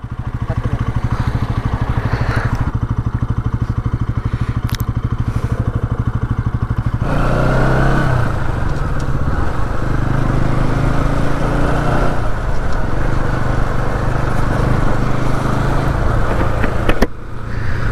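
Bajaj Pulsar NS200 single-cylinder engine idling with close, even firing pulses, then pulling away about seven seconds in and running on the move with the pitch rising and falling.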